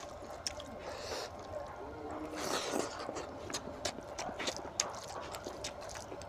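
Close-up mouth sounds of a man eating goat boti curry by hand: wet chewing with a steady run of sharp lip-smacking clicks, and two short noisy breaths about a second in and again near the middle.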